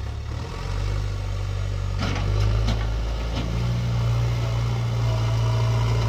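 Diesel engine of heavy earth-moving machinery running steadily at a low, even hum, with a few short knocks around two to three seconds in.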